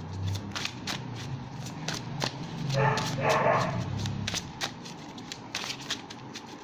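Tarot cards being shuffled and handled, a rapid run of small dry clicks. About three seconds in there is one short high-pitched cry.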